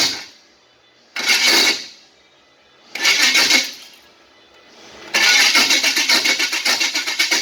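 A 1927 roadster's engine being cranked from cold in short bursts: two brief tries, then a longer crank of about three seconds with a quick, even pulsing. The engine does not catch and run between the tries.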